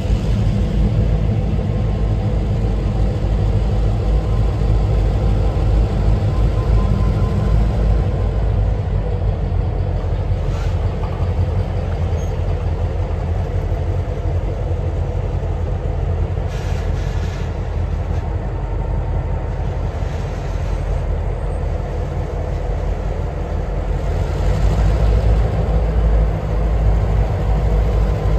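Diesel locomotive engines running with a steady low rumble as a train works through.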